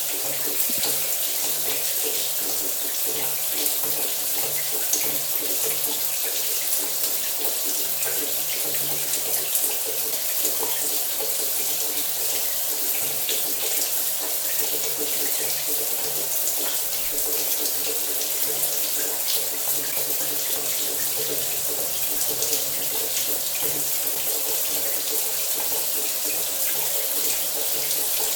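Shower running steadily, water spraying and splashing in an even hiss, with a faint steady low hum underneath.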